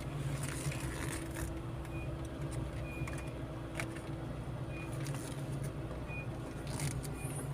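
Car engine idling steadily, heard from inside the cabin, with a few faint short high tones now and then.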